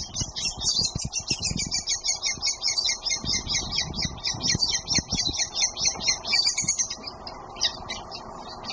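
Chimney swifts chattering: a rapid stream of short, high-pitched notes, about five or six a second, that thins out about seven seconds in. Dull low thumps are heard beneath the calls.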